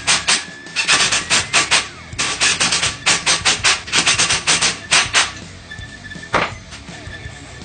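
Rapid runs of hammer blows, about five or six a second in short groups, stopping a little over five seconds in, with one last blow about a second later. Music plays underneath.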